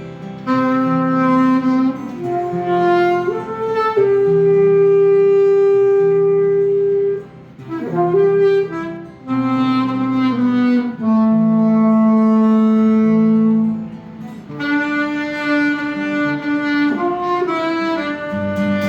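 Saxophone playing a slow melody of long held notes in phrases, with a lower accompaniment moving underneath.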